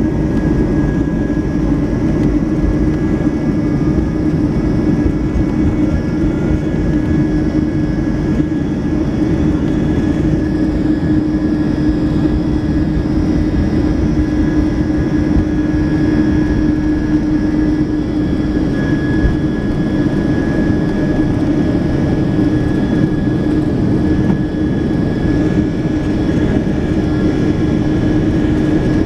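Steady jet engine noise of a Boeing 757-200 with Rolls-Royce RB211 engines, heard inside the cabin, with a steady hum over it that does not change in pitch.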